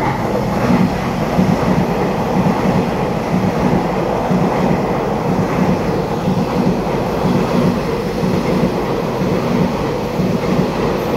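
Twelve-car EMU3000 electric multiple unit express passing through the station at speed without stopping: a steady, loud rumble and clatter of its wheels on the rails as the cars go by.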